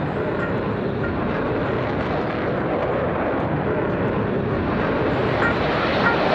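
Steady jet noise from a U.S. Air Force F-16 Fighting Falcon's single turbofan engine as the fighter flies its display.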